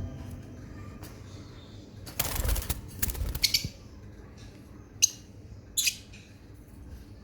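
Lovebirds flapping their wings in two brief flurries, followed by two short, sharp sounds about a second apart.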